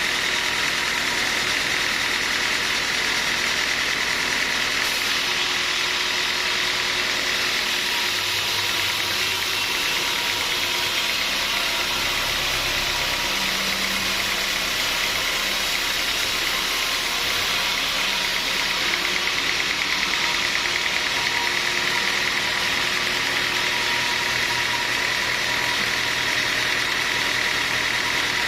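Sawmill machinery running with a steady mechanical drone and whine.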